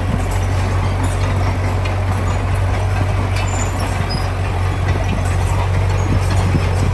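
Heavy diesel earthmoving machinery running steadily under load, a loud low engine drone with a rough mechanical clatter over it.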